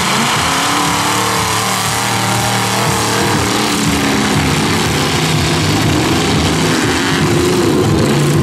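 Engines of several wrecked demolition derby cars running and revving at once, a loud steady mass of engine and exhaust noise whose pitch rises and falls as the drivers work the throttle.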